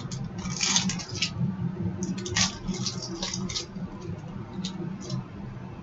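Trading card packs being handled: a crinkly foil wrapper and cards rustling in short, irregular crackles, over a steady low hum.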